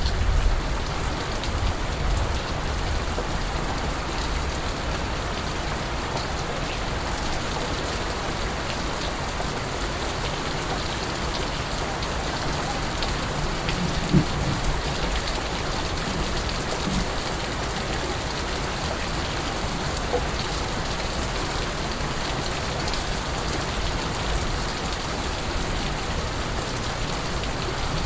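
Steady rain falling, an even hiss with scattered water drips, and a single low thump about halfway through.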